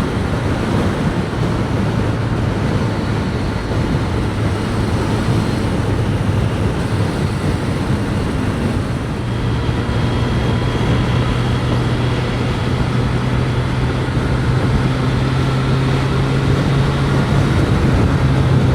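Triumph Street Triple 765 RS inline-three engine running at highway speed under heavy wind noise, heard through a helmet-mounted mic. The engine note drops slightly about a second and a half in, then rises again around nine seconds in.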